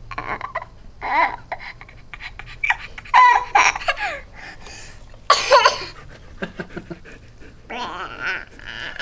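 Toddler laughing in several bursts of high-pitched giggles and belly laughs, with short breaths between.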